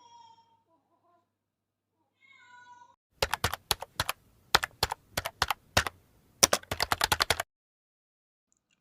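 A cat meows faintly twice, then a rapid run of sharp clicks, about five or six a second, goes on for about four seconds.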